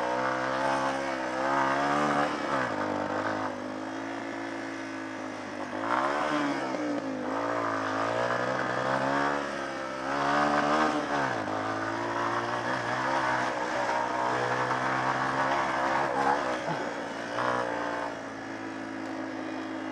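Off-road motorcycle engine being ridden, its revs rising and falling repeatedly as the throttle is worked. The engine settles to a lower, steadier note near the end.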